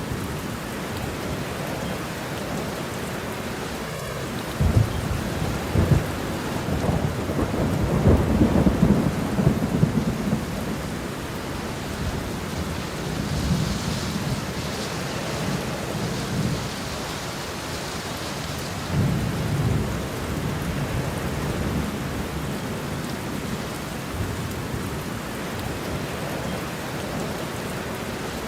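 Steady rain falling, with low rolls of thunder rumbling through it several times; the heaviest rumble comes about eight to ten seconds in.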